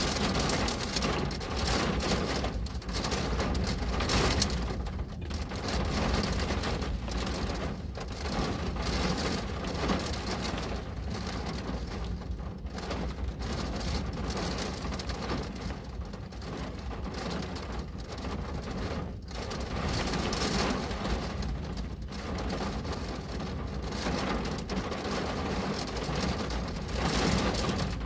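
Steady rain pattering on a window pane, dense fine drops over a low rumble, swelling and easing every few seconds.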